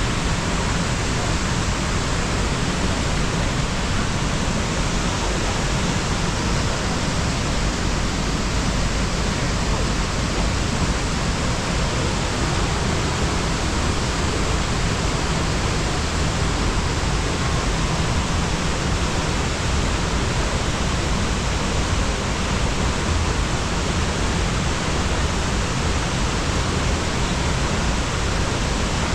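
Sengataki waterfall, its water falling strongly, a steady, even rush of water with no change.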